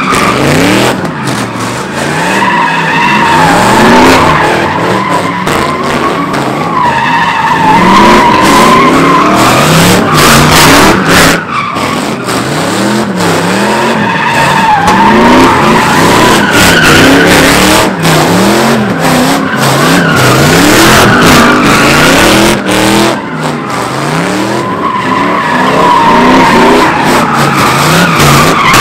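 Car engine revving up and falling back over and over while the tires squeal without a break, the sound of a car spinning donuts. The squeal wavers in pitch, and the loose, throttle-held revs rise and drop every second or two.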